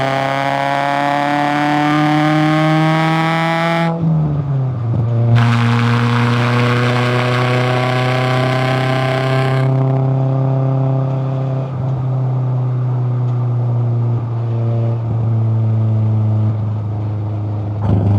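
Toyota AE86 Corolla Levin's 4A-GE twin-cam four-cylinder engine and exhaust pulling under acceleration, rising in pitch, then dropping sharply about four seconds in at a gear change. The car then runs on at a steadier engine note with a few brief dips, with a hiss for a few seconds after the shift.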